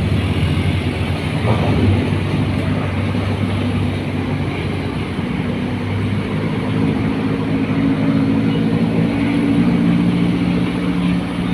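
Heavy truck engine running with a steady low drone; its pitch rises over a few seconds in the second half, then settles.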